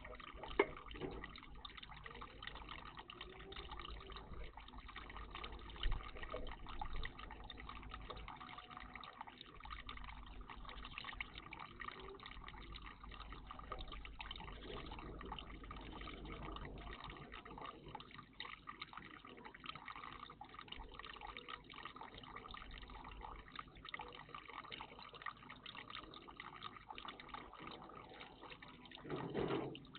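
Water trickling and dripping steadily in a garden bird bath, with scattered small clicks, a couple of sharper knocks, and a louder burst of sound just before the end.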